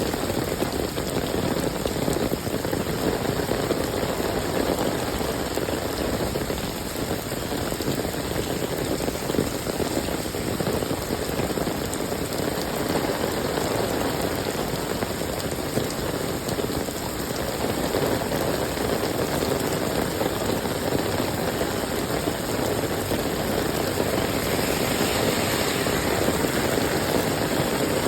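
Steady rainfall, a continuous even patter and hiss of rain on surfaces, with the higher hiss growing a little brighter near the end.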